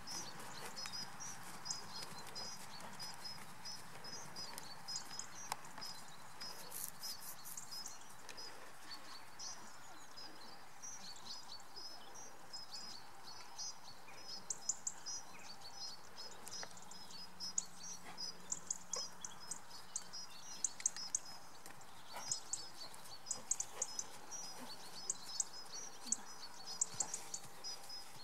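Small birds chirping and twittering over and over, busier in the second half, over a steady outdoor background hiss.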